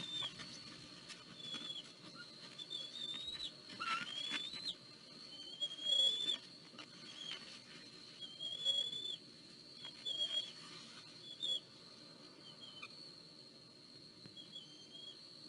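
Bird calls: a string of short, high whistled notes, some rising and some dropping sharply in pitch, over a steady thin high whine and a low rumble of wind.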